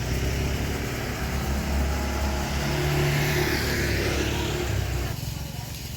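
A motor engine running with a steady low hum and a note that rises and falls, cutting off suddenly about five seconds in.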